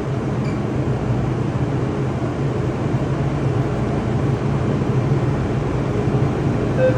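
Steady rumble and hiss of a train standing at a platform. Right at the end the door-closing warning begins: a rapidly repeating beep.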